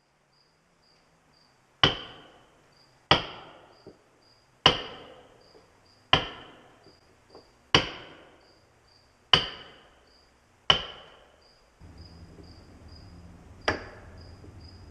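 A mallet striking a caulking iron, driving caulking into a wooden hull seam: about eight sharp, ringing blows, roughly one every second and a half.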